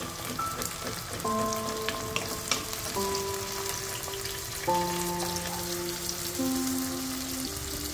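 Crushed spice masala frying in hot oil in a cooking pot: a steady sizzle with a few small spits, about four in the first five seconds. A soft background melody of held notes plays along with it.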